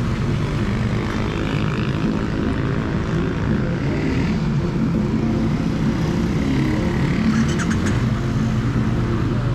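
Triumph Bonneville T100 parallel-twin engine and exhaust running steadily under way, heard close to the exhaust, with a few light clicks about three-quarters of the way through.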